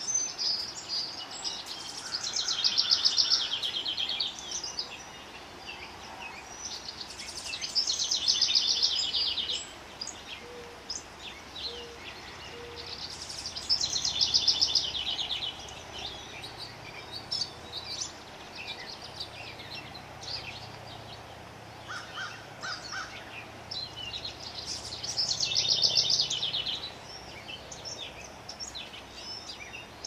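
Songbird singing outdoors: a rapid trilled phrase of about two seconds, heard four times at uneven intervals, with scattered short chirps between.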